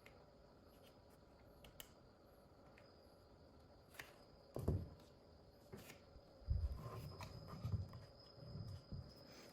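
Quiet handling noises: a faint steady hum at first, then a few sharp clicks and a run of soft low thumps and rubbing from about halfway through, as of a small plastic object being picked up and set down.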